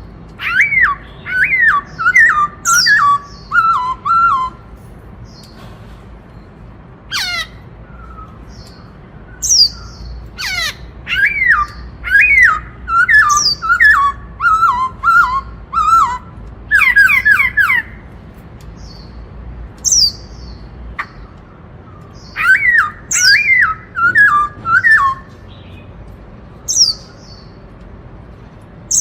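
Black-throated laughingthrush singing its "bắt cô trói cột" song. It comes in loud bouts of clear whistled notes, each run stepping down in pitch, mixed with thin high whistles, with pauses of a few seconds between bouts.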